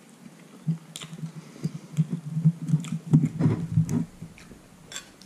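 A man chewing a mouthful of food with closed-mouth humming, with a few light clicks of knife and fork.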